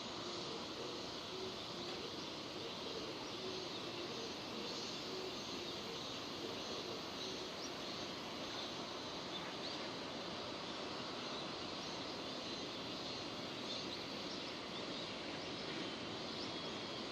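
Steady rain falling, an even hiss, with a faint low drone that fades out about halfway through.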